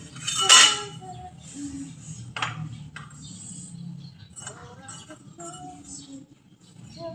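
Metal clinking and knocking as hard objects are handled, with a loud pair of strikes about half a second in, two more about 2.5 and 3 seconds in, and lighter clinks between.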